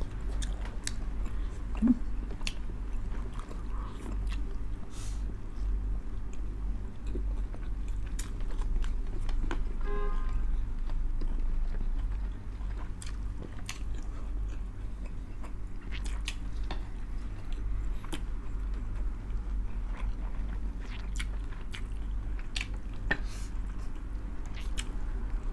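Close-miked chewing and biting of two people eating pork blood stew (dinuguan) with rice by hand, with scattered wet mouth clicks and smacks throughout.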